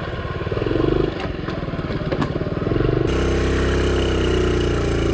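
Honda CT70 trail bike's small single-cylinder four-stroke engine running as the bike is ridden slowly, with a few light knocks. About three seconds in it settles into a steadier, slightly louder note.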